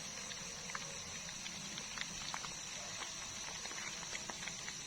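Night insects holding one steady high-pitched trill, with scattered small clicks and ticks over it.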